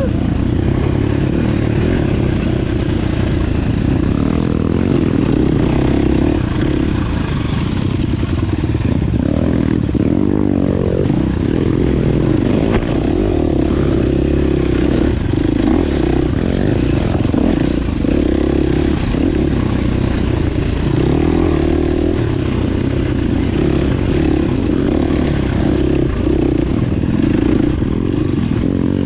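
Dirt bike engine running as the bike is ridden, a steady, loud sound throughout.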